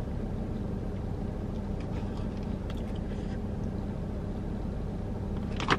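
Car engine idling, heard inside the cabin as a steady low hum, with a short sharp click just before the end.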